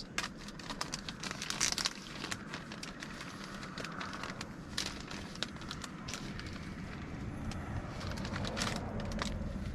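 Wax paper and food packaging crinkling and rustling in the hands, with scattered clicks and taps of handling. A low rumble builds toward the end.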